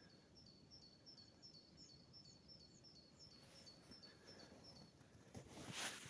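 A songbird singing faintly, a quick two-note phrase, higher then lower, repeated at about four notes a second and stopping about a second before the end. Shortly before the end comes a brief rustle, the loudest sound here.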